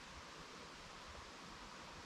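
Near silence: a faint, steady hiss of quiet background noise with no distinct sounds.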